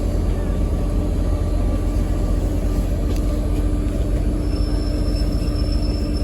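Passenger train running, heard from inside the carriage: a steady rumble with a steady hum. About four and a half seconds in, a thin high wheel squeal comes in.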